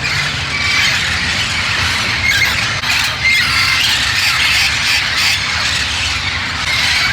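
A flock of feral Amazon parrots squawking and screeching together, many loud calls overlapping without a break, over a low steady rumble.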